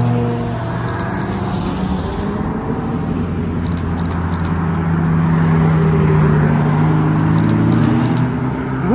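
Car engines running at low speed with a steady low note as cars move past slowly, and a quick rising rev near the end.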